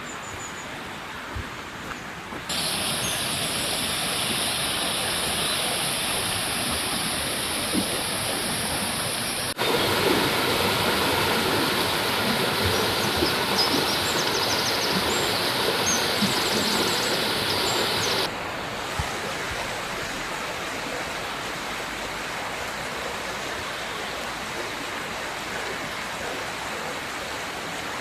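Mountain river water rushing steadily, an even hiss-like flow whose loudness and tone change abruptly three times, getting louder about 2.5 and 9.5 seconds in and quieter about 18 seconds in. Faint high chirps sound over it in the middle.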